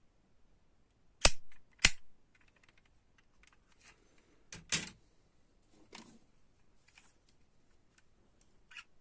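Diecast model cars being handled and set down, making sharp clicks and taps: two loud clicks about half a second apart a little over a second in, a louder knock near the middle, then a few fainter taps.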